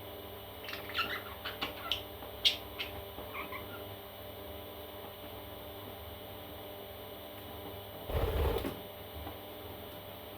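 Parrot chicks giving a quick run of short, high chirps in the first few seconds. A brief low rustle or bump comes about eight seconds in, over a steady electrical hum.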